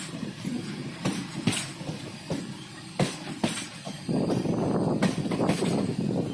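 Passenger train running along the track, heard from aboard, with a steady rumble and irregular sharp clicks and knocks. The rumble grows louder for about two seconds past the middle.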